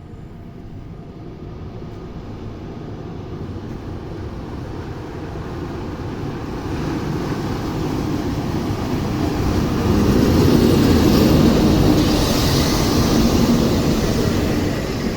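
EP2K electric locomotive passing with a train, its rumble and wheel-on-rail noise growing steadily louder as it approaches, loudest about two-thirds of the way through, then easing off slightly near the end.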